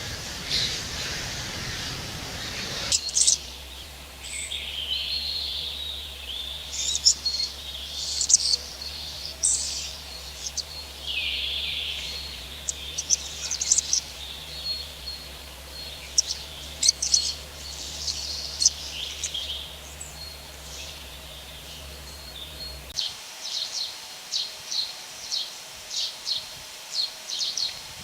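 Rainforest birds calling: a mix of short chirps and whistled calls from several birds. It opens with a few seconds of steady rushing noise, and near the end there is a quick series of repeated chirps, about two a second.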